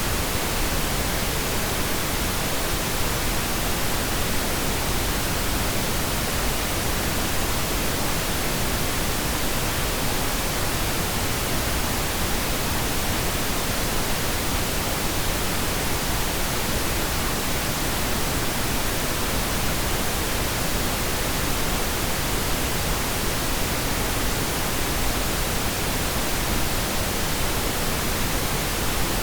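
Steady pink noise: an even hiss that doesn't change.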